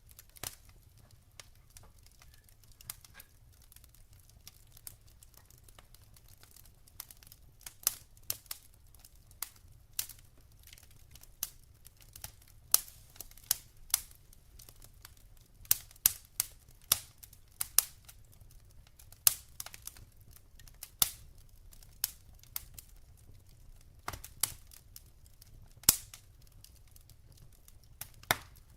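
Wood fire in a fireplace crackling and popping: scattered sharp snaps of burning logs over a faint low rumble, sparse at first and coming thicker from about a quarter of the way in.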